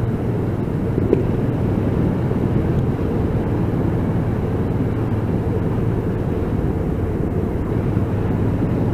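Motorcycle on the move heard from a microphone inside the rider's helmet: a steady, muffled rumble of wind and engine with a low hum.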